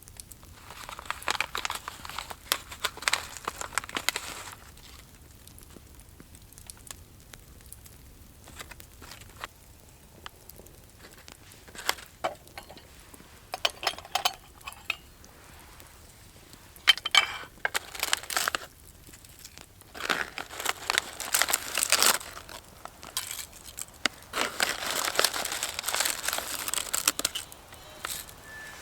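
Crinkling and rustling in several separate bursts of a few seconds each, like something dry being handled or crumpled.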